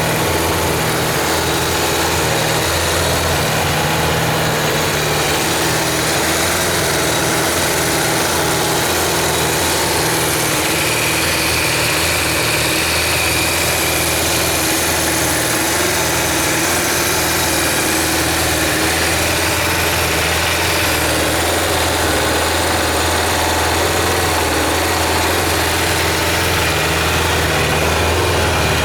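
Kawasaki GPZ550 (ZX550A) air-cooled inline-four engine idling steadily.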